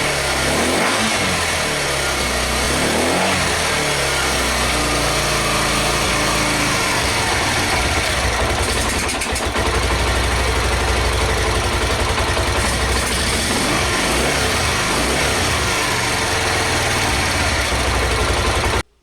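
Suzuki TU250X single-cylinder engine running and being revved, its pitch rising and falling over the first few seconds, then running more steadily. The sound cuts off abruptly near the end.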